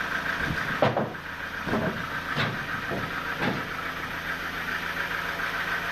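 Sawmill machinery running with a steady whining hum, broken in the first half by four sharp knocks.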